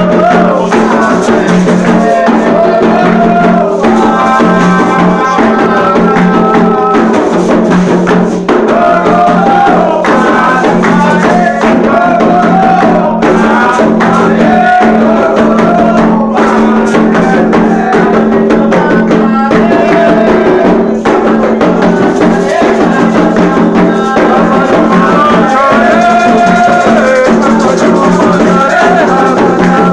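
Candomblé ritual music for Xangô: voices singing a chant over hand drums and rattles, with a steady low hum underneath.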